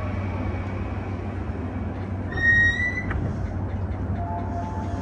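E235-series commuter train's interior running noise as it rolls to a stop at a station: a steady low rumble, a brief high brake squeal about halfway through, then a clunk as the train comes to rest. Faint steady tones start near the end.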